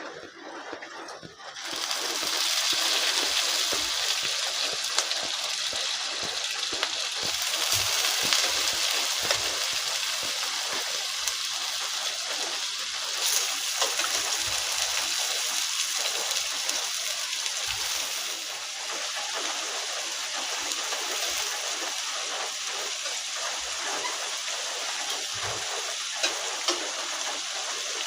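Chicken pieces going into a wok of hot oil and fried spice paste, starting to sizzle suddenly about two seconds in, then a steady hiss with small crackles and spits.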